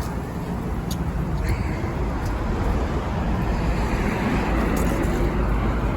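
Steady low rumble of road traffic mixed with gusting wind on the microphone.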